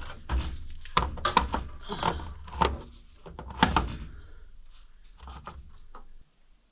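A series of sharp wooden knocks and clunks with a brief scrape, as boards and lumber are handled and bumped, fading to a few softer knocks near the end.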